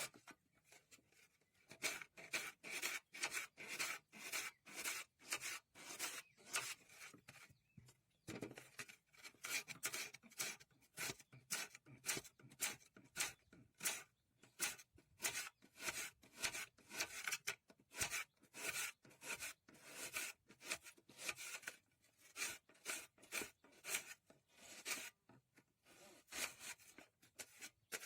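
Rhythmic rasping strokes of food being cut or scraped by hand, about three a second, with a few short pauses.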